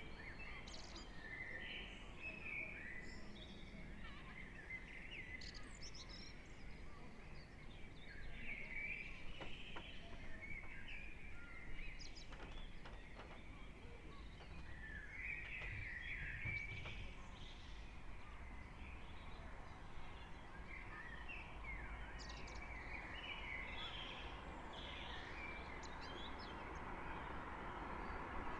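Early-morning birdsong from several birds: many short chirps and trills overlapping, faint, over a low steady rumble of distant traffic, with a smooth rushing sound growing near the end.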